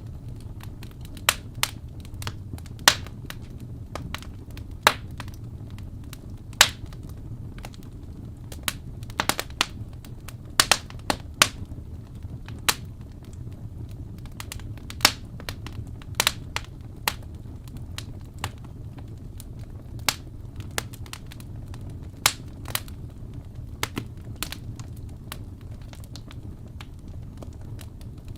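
Wood fire burning in a fireplace: logs crackling and popping in sharp, irregular snaps over a steady low rumble of flames.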